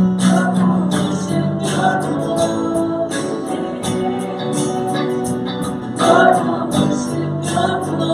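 Worship song: voices singing with instrumental accompaniment.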